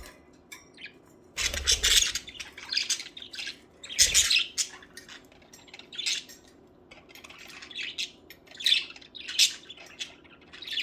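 A flock of pet budgerigars chirping and squawking in short, quick calls, with the loudest flurries of calls about a second and a half in and about four seconds in.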